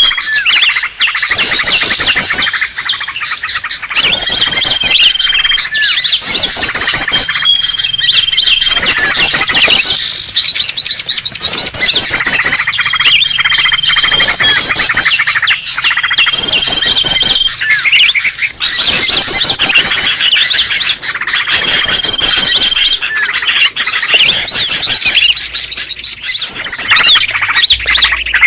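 Recorded calls of greater green leafbirds (cucak ijo) chattering agitatedly, played as a bird lure: dense, rapid high trills repeated phrase after phrase, with a short steady whistle recurring every few seconds.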